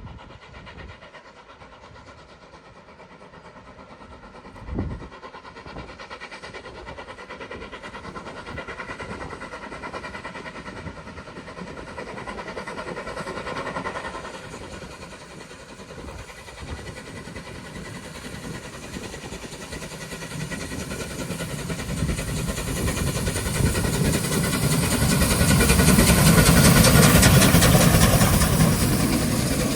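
Mallet steam locomotive running. It grows steadily louder over the last ten seconds and is loudest near the end. There is a single low thump about five seconds in.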